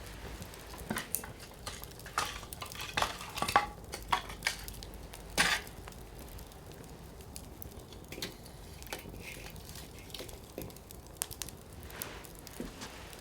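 Firewood burning in an open campfire, crackling and popping over a low hiss. A quick run of crackles comes in the first half, ending in one loud pop, then the pops grow sparser.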